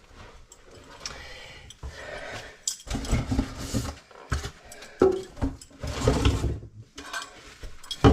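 Tools and metal parts being handled, clinking and knocking in irregular bursts.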